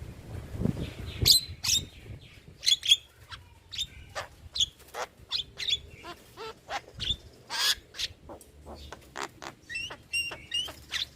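Javan myna singing a rapid, varied string of short chirps, clicks and whistled notes, with one longer harsh screech a little past the middle.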